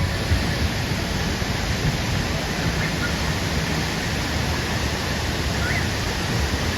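Waterfall: a steady, even rush of falling water, loud enough to drown out the voices of the crowd around it.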